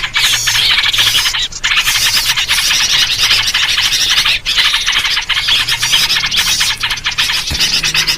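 Dense, unbroken chatter of many small birds calling noisily over one another, a 'ribut' lure recording built on sooty-headed bulbul (trucuk) calls and used to draw in small birds.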